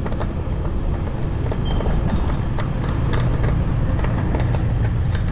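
Steady wind rumble on the microphone and road noise from an electric bicycle riding at speed through traffic, with scattered rattling clicks and a brief high squeak about two seconds in.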